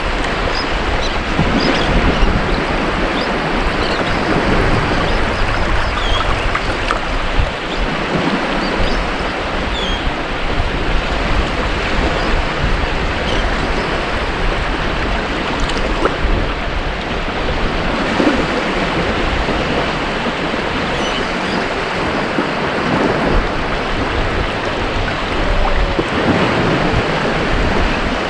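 Ocean waves breaking and washing on a beach: continuous surf that swells and eases in loudness.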